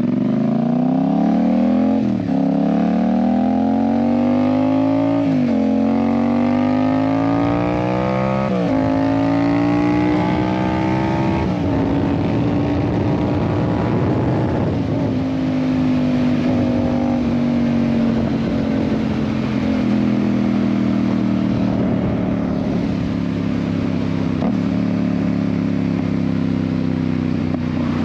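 Yamaha MT-07 parallel-twin engine through an Ixil aftermarket exhaust, accelerating hard through the gears. The engine note climbs and drops at four upshifts in the first dozen seconds, then settles into a steady cruise with the pitch slowly sinking.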